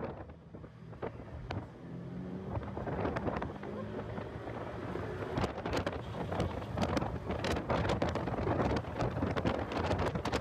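Heavy wind buffeting on the microphone, crackling and popping, over a car engine running at speed. The noise gets louder from about two seconds in.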